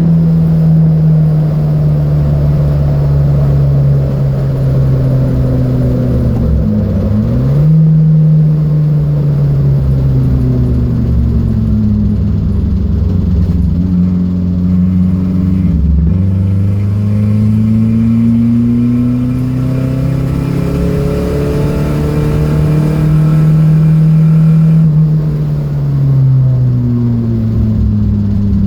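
Datsun B210's four-cylinder engine running hard on a race track. The engine note holds, dips and recovers about 7 seconds in, changes abruptly around 16 seconds, climbs steadily as the car accelerates, then falls off near the end as the driver lifts.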